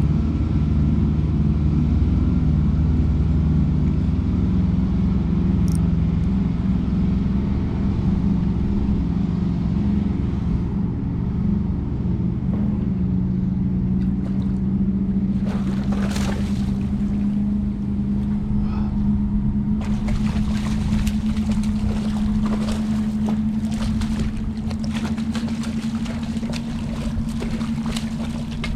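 Boat engine running steadily, a low drone holding one pitch, with a flurry of short clicks and knocks through the last third.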